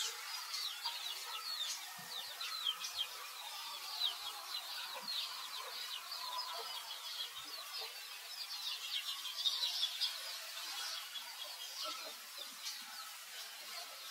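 Small birds chirping busily: a quick, unbroken string of short, high chirps that fall in pitch, several a second.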